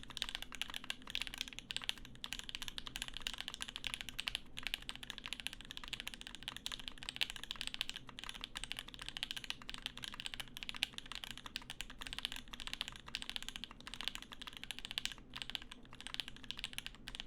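Continuous fast typing on the Percent Studio Skog-Reboot prototype mechanical keyboard: a dense, unbroken run of key clacks.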